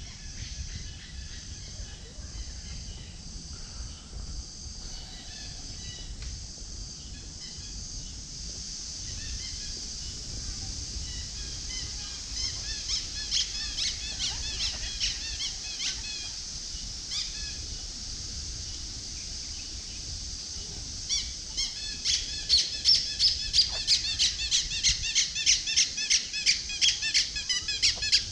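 High-pitched chirping calls from wild animals in the trees, repeated in a rhythm. They grow louder partway through and end in a fast regular run of loud chirps, about three a second, over a steady high hiss and a low rumble.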